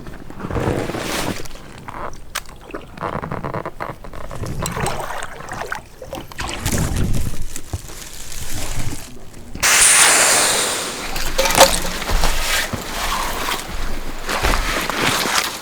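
Water sloshing and gurgling around an inflatable packraft, with irregular knocks and rustles as it is handled. About ten seconds in, a louder rushing hiss starts suddenly.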